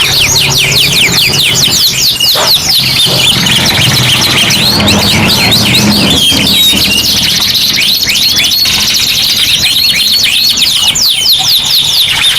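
Several domestic canaries singing at once, with fast rolling trills and long runs of quick downward-sweeping chirps, loud and unbroken.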